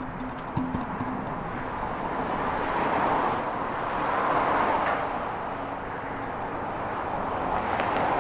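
Road traffic: cars passing by, the tyre and engine noise swelling and fading, loudest about three to five seconds in and again near the end.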